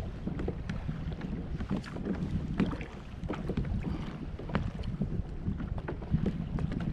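Wind rumbling on the microphone and water lapping against a kayak hull, with scattered light clicks and knocks.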